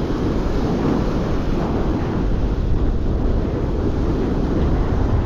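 Steady wind buffeting the microphone over the rush of breaking surf.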